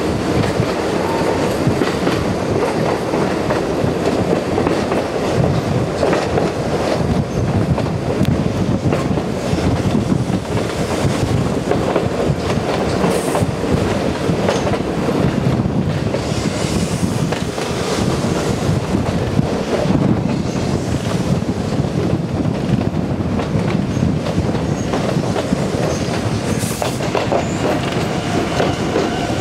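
Konan Railway Owani Line electric train running along the track: a steady rumble of the car with wheels clicking now and then over rail joints.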